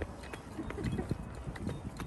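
Irregular footsteps, a scatter of soft knocks and crunches, over a low rumble of wind on the microphone.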